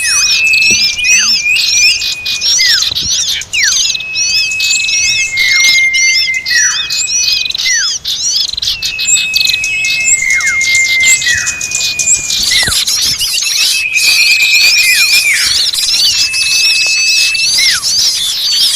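A bird-lure recording of agitated small birds calling all together, used to draw small birds in. Many quick rising-and-falling chirps run over a repeated held high note that drops away sharply at its end, coming back every second or two.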